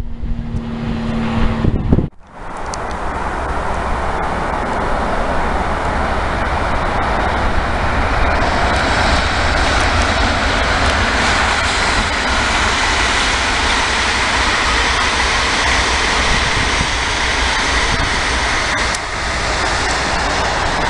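Electric multiple-unit passenger train passing on a main line: a steady, continuous rush of wheels on rail that lasts for many seconds. Before it, for about the first two seconds, a lower rumble with a steady hum comes from an earlier train, and it cuts off abruptly.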